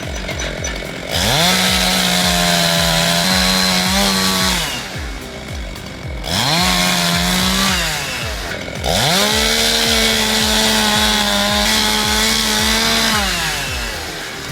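Small petrol engine of a portable band sawmill revving up to full speed and dropping back to idle three times, the longest run near the end.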